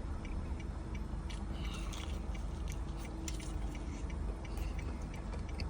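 Someone biting into and chewing a crispy fried chicken wing, with scattered small crunching clicks, over a low steady hum.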